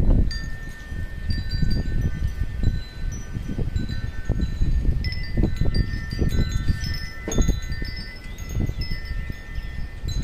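Metal wind chimes ringing irregularly, several clear pitched tones struck at random and left to ring, over a low, gusty rumble of wind.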